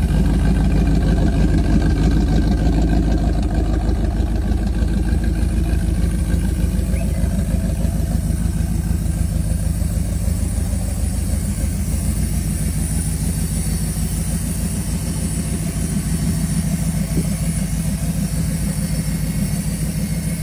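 Car engine idling steadily, loud and close, with a fast, even exhaust pulse. It starts and stops abruptly.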